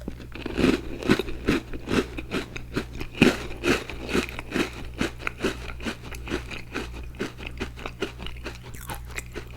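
Close-miked crunchy chewing of a cherry Icee cookie, a regular crunch about twice a second, louder in the first few seconds and softer as the bite breaks down.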